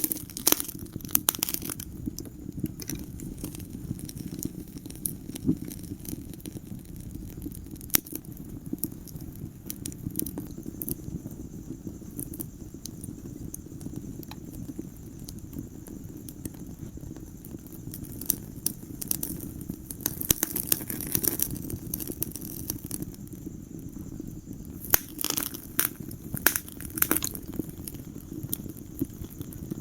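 Wood fire burning in a fireplace: a steady low rush of flame with scattered sharp crackles and pops, busier near the start and through the last third.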